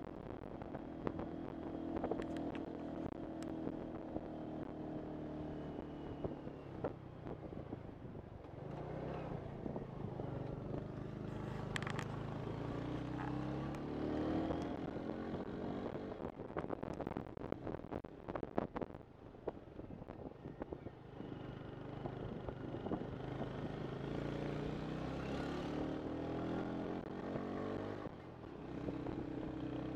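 Motorcycle engine running and revving, its pitch climbing and dropping several times as it accelerates and changes gear, over road noise.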